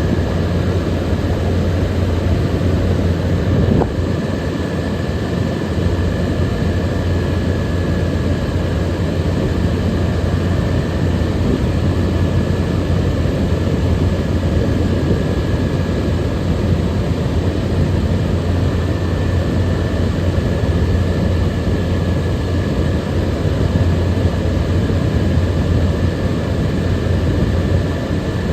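Frigidaire 18,000 BTU air conditioner running steadily: a constant rush of fan air over a deep hum, with a faint high whine on top. A single brief click about four seconds in.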